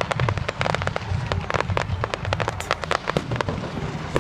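Fireworks crackling: a rapid, dense run of sharp cracks, many a second, over a low rumble.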